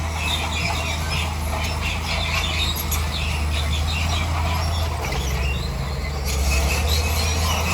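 Bulldozer engine running under load with a steady low rumble, overlaid with squeaking and clicking from its steel tracks and the pushed rock. The rumble grows a little louder past the middle.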